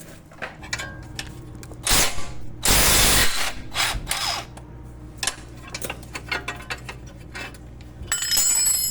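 Ratchet wrench with a 13 mm socket clicking as it undoes the single bolt that holds a front suspension ball joint, with a louder rasping spell about three seconds in and ringing metal clinks near the end.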